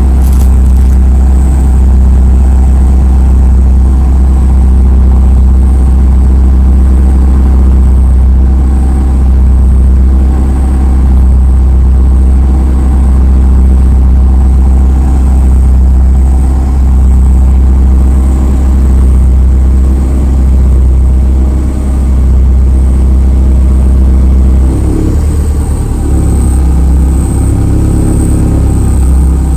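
Car engine idling, a loud steady low hum close to the microphone; the low hum shifts in pitch and wavers near the end.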